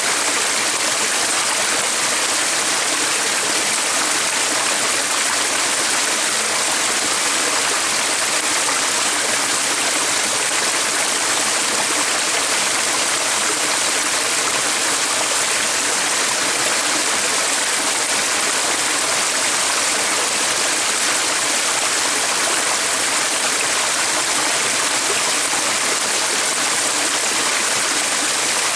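Flowing stream water, a steady, unbroken rush that holds the same level throughout.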